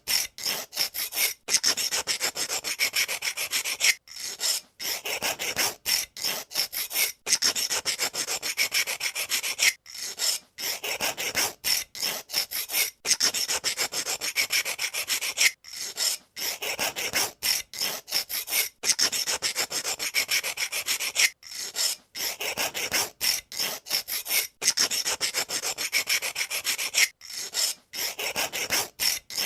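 Pencil being turned in a pencil sharpener, the blade scraping and shaving the wood in runs of rapid gritty strokes broken by brief pauses every second or two.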